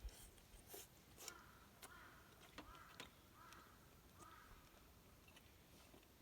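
Faint bird calls: about five short calls repeated at intervals. A few sharp clicks come over them in the first few seconds.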